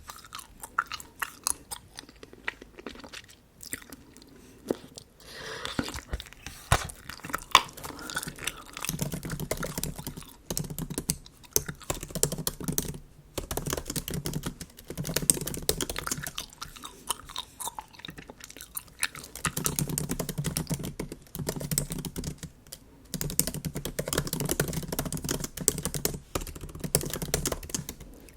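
Bubble gum chewed close to the microphone: a dense run of quick, wet mouth clicks and smacks, with MacBook keyboard typing mixed in.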